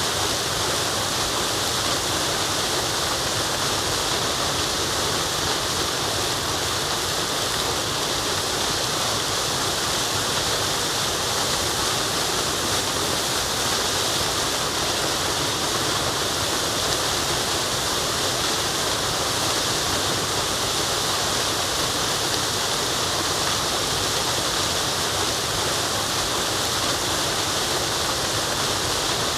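Forest waterfall: falling water rushing steadily, an even, unchanging wash of noise strongest in the hiss of the higher tones.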